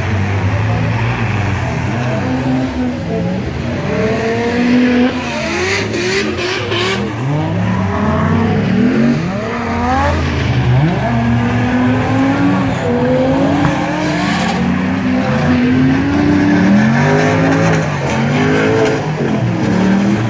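Drift cars' engines revving up and down over and over as they slide around the track, at times more than one engine at once.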